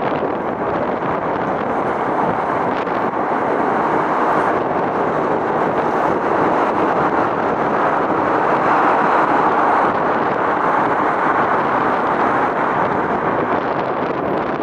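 Steady rushing outdoor noise with no distinct events, swelling slightly around the middle.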